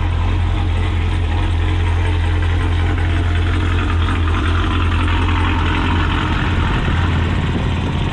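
A car engine running steadily at low speed, with a constant low drone and no change in pitch.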